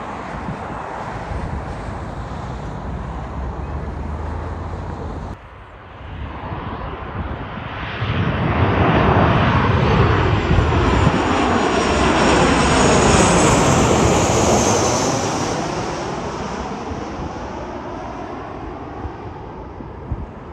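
An airliner's engines are heard as it flies past low. The sound swells to its loudest about two thirds of the way through and then fades, with a high whine that drops in pitch as the plane goes by. Before it, a steady engine and wind noise cuts off abruptly about five seconds in.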